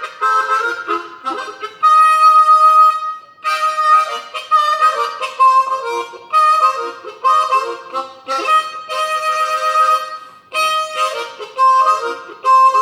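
Harmonica playing a blues break: short phrases with a long held note about two seconds in.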